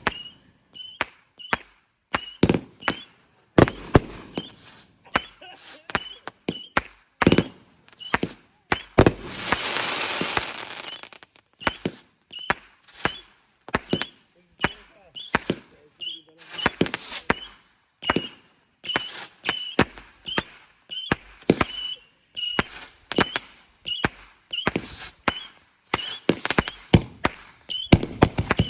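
Consumer fireworks going off: a long, irregular run of sharp bangs and pops, with a hissing rush lasting about two seconds around ten seconds in.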